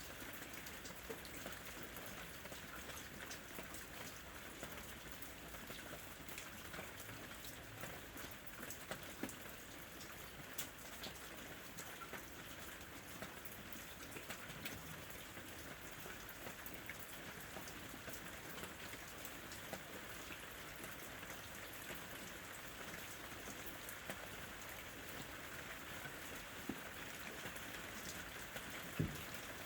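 Steady rain falling on a surface, with scattered individual drops ticking and one sharper drip near the end.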